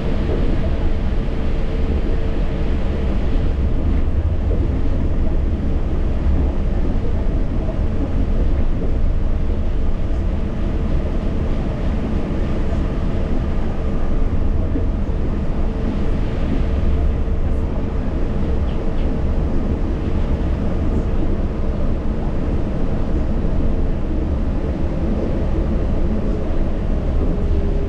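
Yurikamome rubber-tyred automated guideway train running, heard from inside the car: a steady low rumble with a held motor whine that starts to fall in pitch near the end.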